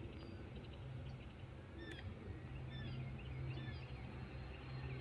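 Small birds chirping, many short rising and falling calls scattered throughout, over a faint steady low hum.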